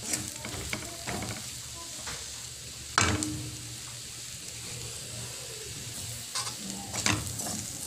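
Boneless bangus sisig sizzling steadily in a hot wok, finished cooking. A few sharp knocks sound over it, the loudest about three seconds in.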